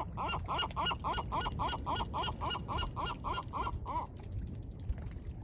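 A gull giving a rapid series of short, repeated calls, about four or five a second, that stops about four seconds in.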